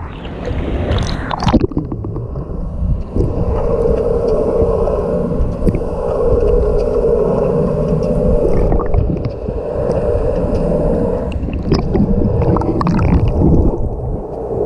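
Wave pool water sloshing and gurgling around the microphone, heard muffled and rumbling, as from a camera held at or under the water surface. It is splashy for the first second or so, then turns dull and deep with occasional sharp clicks.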